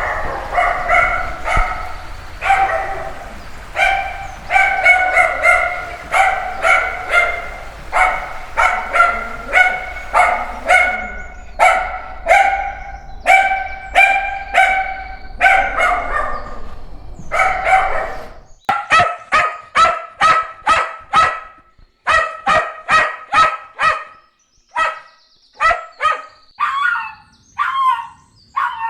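Puppies barking over and over in short, high-pitched yaps, about two a second. About 18 seconds in, a low background hum drops out and the barks turn higher and sharper, and near the end some become whiny yips that bend in pitch.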